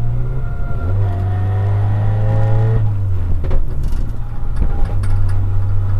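VW Golf GTI Mk3 rally car's engine running hard, heard from inside the cabin. Its note breaks and picks up again about a second in, drops away around three seconds in, then comes back steady, with a few sharp knocks in between.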